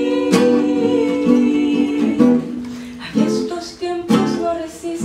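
Live acoustic band music: acoustic guitar strumming chords, with one long held note over the first two seconds that then gives way to strumming alone.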